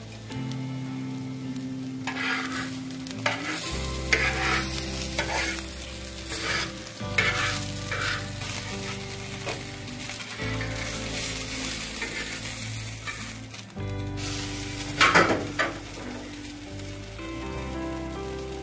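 Egg-dipped sandwich sizzling in hot oil on a flat griddle, with several short scrapes of a metal utensil against the pan, the loudest about two-thirds of the way in. Background music underneath.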